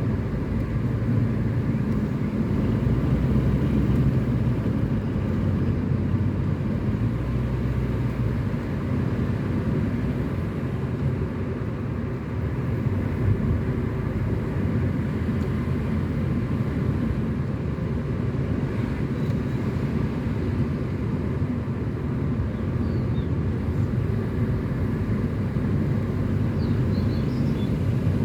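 Car driving along a road: steady low engine and tyre noise, with the engine's hum most distinct for the first eight seconds or so before blending into the road rumble.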